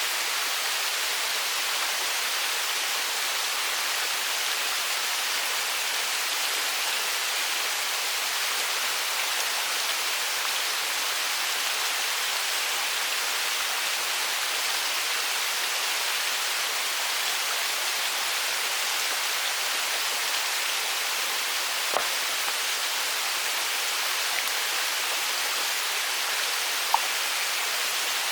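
Mountain stream rushing steadily, an even wash of water noise, with two small ticks near the end.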